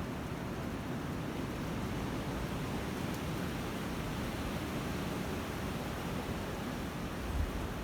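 Strong gusty wind blowing steadily, with low rumbling buffeting of wind on the microphone starting near the end.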